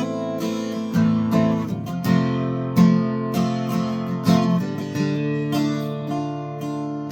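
Acoustic guitar strumming chords as an instrumental introduction, with a sharp stroke every half second to a second.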